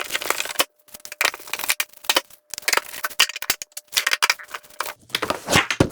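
Handling of a plastic electronic toy book: a rapid, irregular run of clicks, taps and rattles, with a faint steady tone underneath for most of it.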